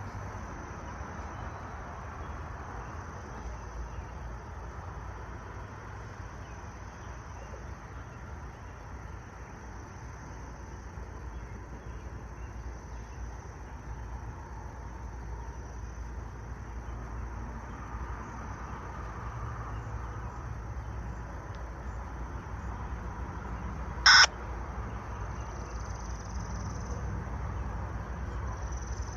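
A steady low background rumble, broken about 24 seconds in by a single short, loud bird's caw.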